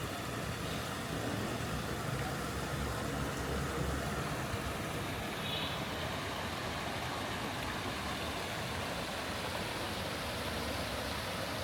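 Street traffic: a steady wash of car engines and road noise, with a stronger low rumble of an engine in the first few seconds.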